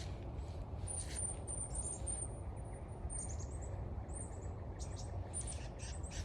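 Small woodland songbirds calling, a busy series of very high, thin chirps and short falling notes coming in little clusters.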